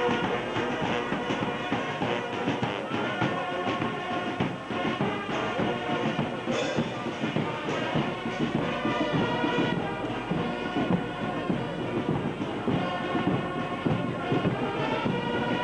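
Brass band playing a tune, with sustained chords.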